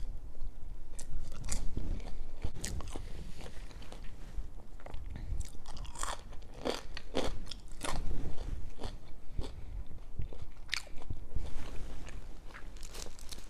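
A person biting and chewing crunchy food close to the microphone, with irregular crisp crunches.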